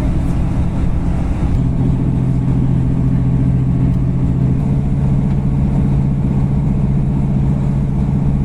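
Steady low drone heard inside a moving diesel passenger train: engine hum and wheels on the rails, the hum growing stronger about a second and a half in.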